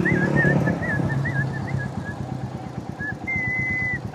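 Someone whistling a tune of short wavering notes, with one longer held note near the end, over the steady pulsing of a motorcycle engine running.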